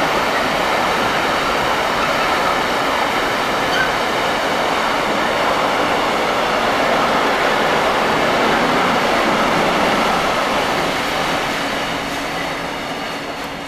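Container freight train's wagons running past on the rails, a steady loud noise of wheels on track that begins to fade near the end.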